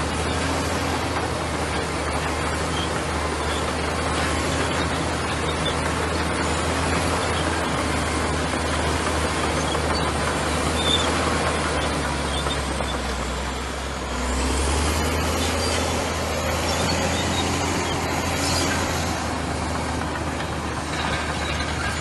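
Komatsu bulldozer's diesel engine running steadily under work. It dips briefly about two-thirds of the way through, then picks up again.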